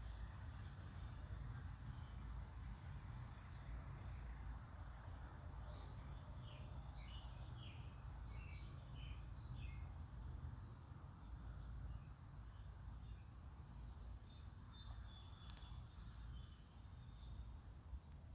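Outdoor ambience: a steady low rumble under scattered short bird chirps and calls, with a busy run of chirps in the middle.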